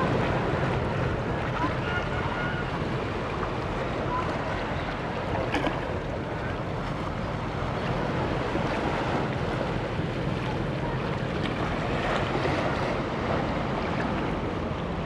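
Wind buffeting the microphone over a steady wash of open-air waterfront noise, with a low rumble throughout.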